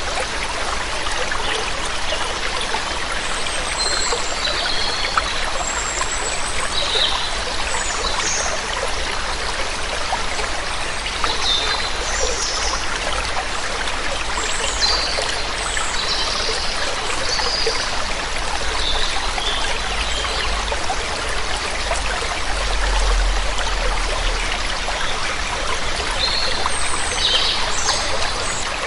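Steady rushing water of a waterfall or stream, with small birds chirping in short scattered calls over it, a few at a time at several points.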